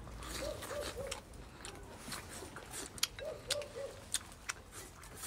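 Close-up chewing of a mouthful of stir-fried pork, with wet mouth clicks and smacks. Behind it a bird calls in short three-note phrases, twice.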